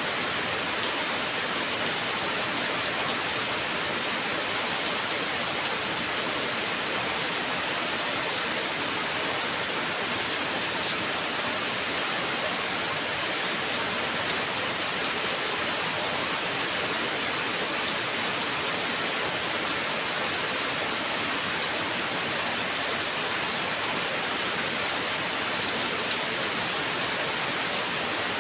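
Heavy rain falling steadily: an even, unbroken hiss of many drops with no pauses and no thunder.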